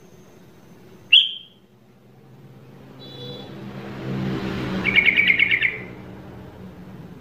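Bird calls: one sharp, loud chirp about a second in, then a quick trill of about ten notes around five seconds in, over a low rumble that swells and fades in the middle.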